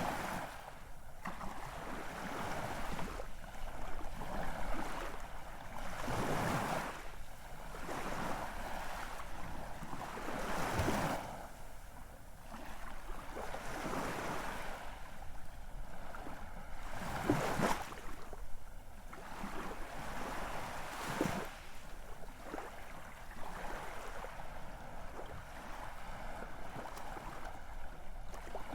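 Ocean waves breaking and washing, the rush of surf swelling and ebbing every four to six seconds.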